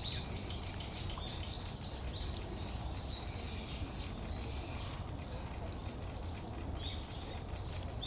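Short, high chirping calls of small songbirds, several in quick succession in the first second and a few more near the end, over a steady high-pitched insect trill and a low rumble.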